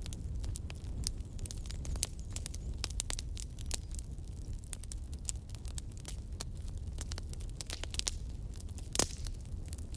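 Fire burning in a fireplace: irregular crackles and pops over a low steady rumble, with one louder pop about nine seconds in.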